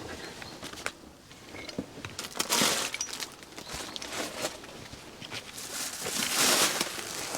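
Crinkling, rustling dry material with many small snaps and crackles, swelling into two longer rustles about two and six seconds in.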